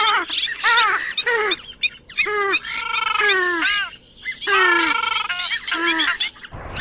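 Purple swamphen calling: a rapid series of loud, nasal, downward-bending notes, with two longer drawn-out, wavering calls in the middle.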